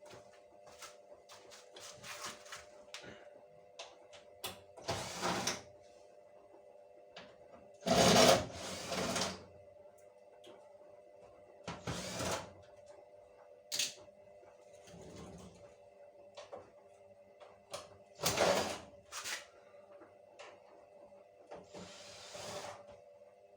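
Intermittent knocks, clicks, clatter and scraping of hands and tools working on a tumble dryer's panels and parts, over a steady hum. The loudest clatter comes about eight seconds in.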